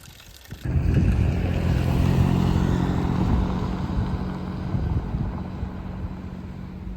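A motor vehicle engine running, coming in suddenly about half a second in and slowly fading towards the end.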